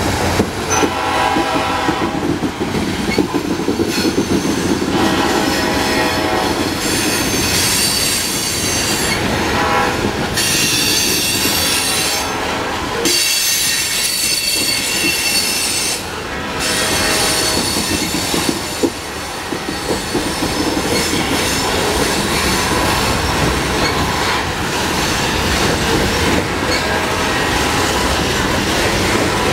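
Loaded coal hopper cars of a freight train rolling past with a steady rumble and clatter of wheels on rail joints. A high-pitched squeal from the wheels comes and goes in stretches of a second or two.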